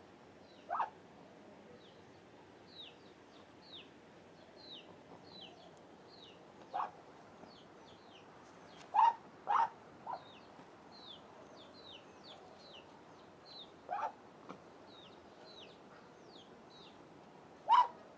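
Bird calls: a steady run of short, high, falling chirps, two or three a second, with a louder short call every few seconds.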